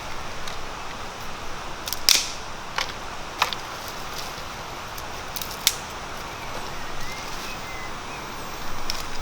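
A few sharp snaps or clicks, irregularly spaced, the loudest about two seconds in, over a steady hiss of outdoor background.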